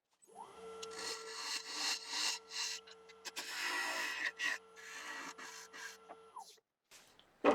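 Wood lathe spinning up, a turning tool cutting into the spinning black locust bowl in several scraping strokes, then the lathe winding down about six seconds in. A single sharp knock near the end.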